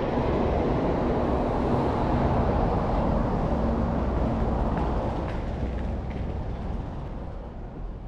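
Steady noise of a running vehicle with a faint low hum, fading away over the last couple of seconds.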